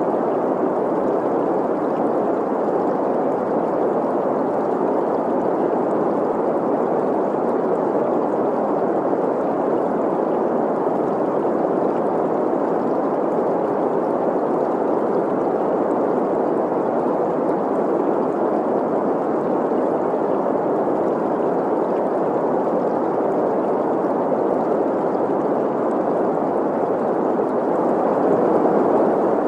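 Generated green noise, a steady even hiss centred in the middle pitches, blended with the sound of a running stream. It swells slightly near the end.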